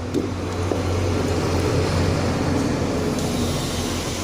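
Steady low electrical hum under a louder rushing, fan-like noise, with a few light clicks as the board's power transformer is plugged in.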